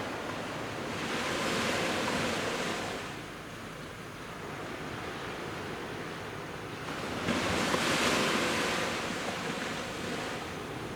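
Sea waves breaking on a beach: two surges of surf, one about a second in and a louder one near eight seconds, with a steady wash of water between them.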